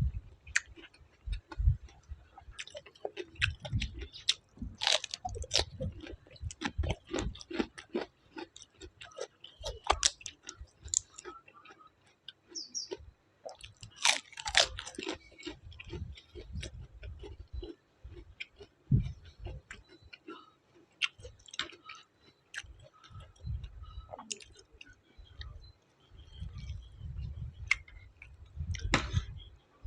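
A person chewing and crunching food close to the microphone, with irregular crackling crunches and soft low thumps of chewing.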